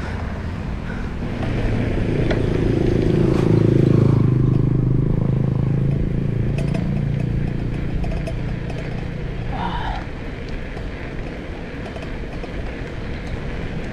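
Wind rushing over the action-camera microphone on a moving bicycle, with a motor vehicle's engine passing: it grows to its loudest about four seconds in and fades away a few seconds later.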